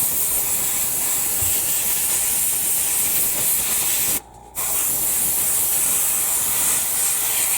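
Airbrush spraying paint: a steady, high hiss of air and atomised paint, with the trigger let off for a moment about four seconds in.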